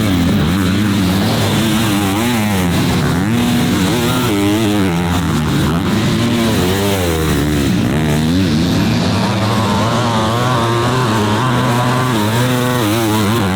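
Several motocross bikes running on the track, their engines revving up and down over and over with overlapping pitches.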